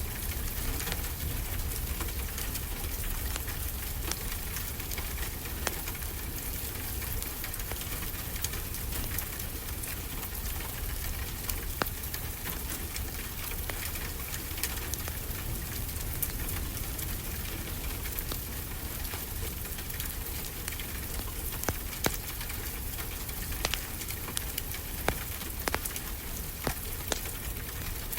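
Wood fire crackling, with scattered sharp pops, over a steady hiss of ocean surf.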